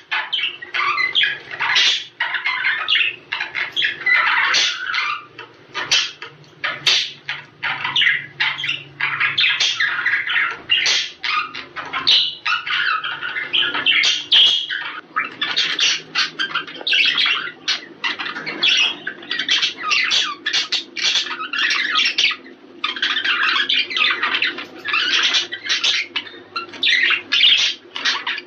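A flock of budgerigars chattering, warbling and squawking without a break: the dense chatter of budgies in breeding condition, used to stimulate pairs to mate. A faint low hum runs underneath.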